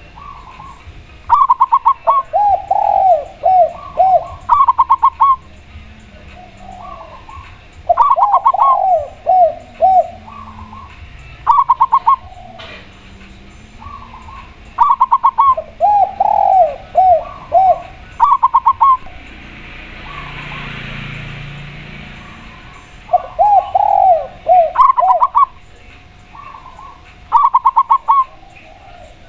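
A spotted dove and a zebra dove cooing in turn: phrases of quick, stuttering higher notes alternate with lower, falling coos, repeating every few seconds. A soft rush of hiss swells up briefly in the middle.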